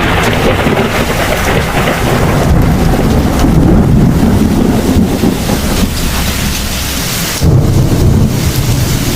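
Heavy thunderstorm: steady heavy rain with rolling thunder rumbling underneath, and a louder rumble of thunder starting suddenly about seven and a half seconds in.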